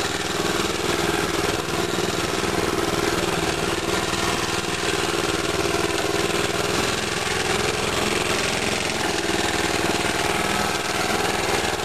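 Mini bike's small single-cylinder engine running at a steady speed, close up.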